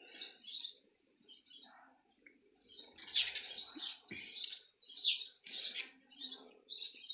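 Small birds chirping over and over, a few short high chirps a second, busiest and loudest in the middle.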